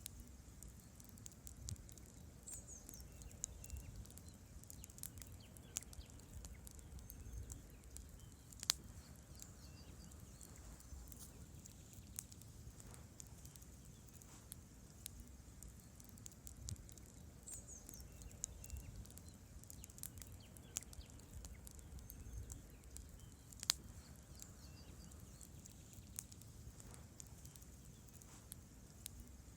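Wood campfire burning quietly, the logs crackling with frequent small irregular snaps over a low steady rumble of the flames. Two louder sharp pops stand out, one about a third of the way through and one about four-fifths through.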